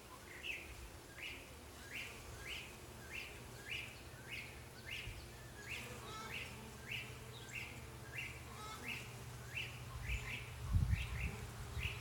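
A bird calling over and over, a short chirp repeated about one and a half times a second, over a low steady hum, with a dull bump near the end.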